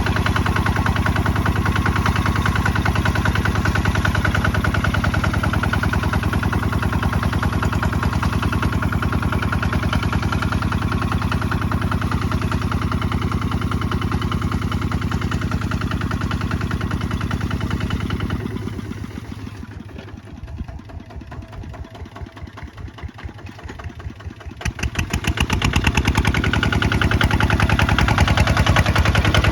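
Kubota ZT155 walking tractor's single-cylinder diesel engine running steadily. About two-thirds of the way through it drops to a quieter chug for several seconds, then comes back up to full running.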